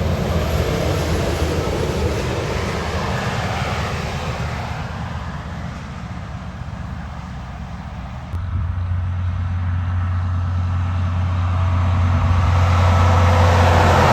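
Heavy trucks passing on a wet highway: tyres hissing through water over a low diesel engine drone. The sound changes abruptly about two-thirds of the way in, then another truck comes up and grows louder near the end.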